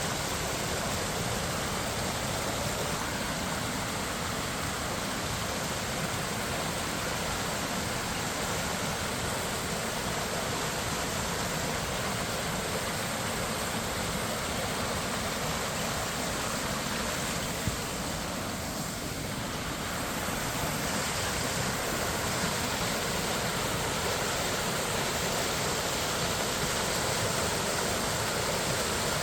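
Steady rush of flowing water from Minnehaha Creek, the stream that runs over Minnehaha Falls.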